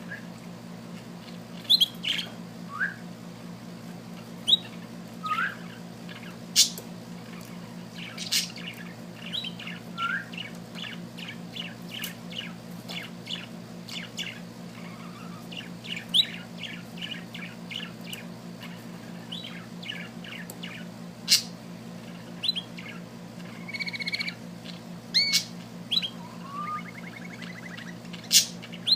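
Small bird singing: scattered chirps and short whistled slides, several sharp loud chip notes, and fast runs of repeated notes, about five a second, through the middle. A steady low hum sits underneath.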